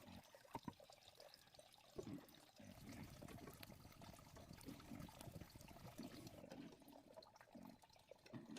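Faint water sounds.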